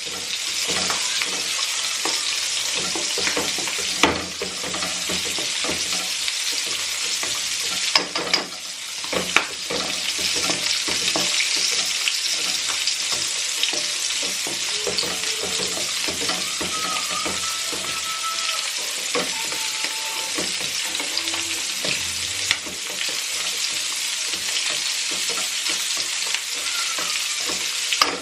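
Fish and onions frying in hot oil, a steady sizzle, broken by a few sharp knocks against the pan, the loudest about four and eight seconds in.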